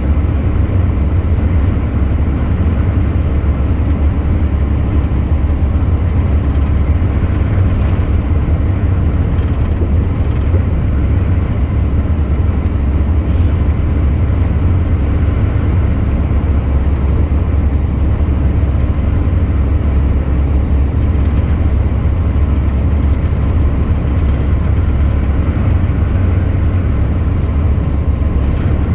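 Truck driving along the road: a steady, unbroken low drone of engine and road noise.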